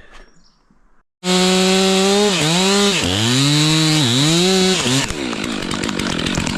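Two-stroke chainsaw starting loud about a second in and running at high revs, its engine note dropping and recovering three times. From about five seconds in the sound turns rougher and noisier.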